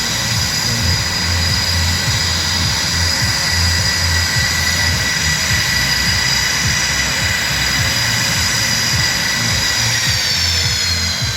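Blue Angels F/A-18 Super Hornet jet engines idling with a steady high whine. About ten seconds in, the whine starts to fall in pitch as the engines spool down for shutdown.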